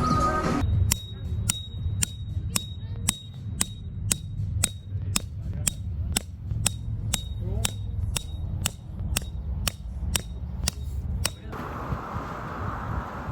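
Sharp, regular clicking, about two clicks a second, over a steady low rumble; the clicking stops suddenly near the end.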